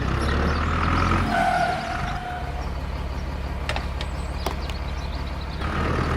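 Truck engine running steadily with a low, pulsing hum. A faint whine sits over it in the first couple of seconds, and a few sharp clicks come near the middle.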